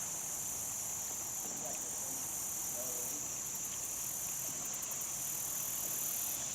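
Insects keep up a steady, high-pitched buzzing drone without a break.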